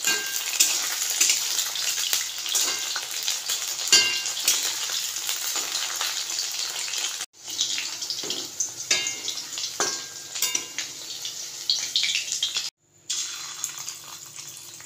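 Cornflour-and-maida-coated chicken pieces shallow-frying in hot oil in a steel kadai, sizzling and crackling, while a metal spatula scrapes and taps the pan as the pieces are turned. The sound cuts out briefly twice.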